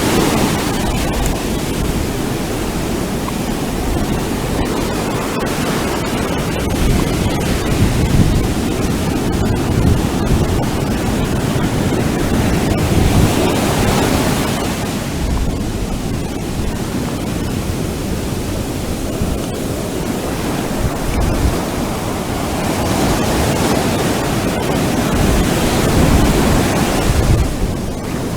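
Ocean waves breaking and washing on a beach, a continuous rush of surf that swells and eases every several seconds.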